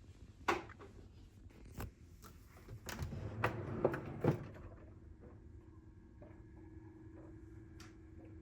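Cabinet doors and drawers being handled: a string of sharp knocks and clicks, then a steady low hum that sets in about four seconds in.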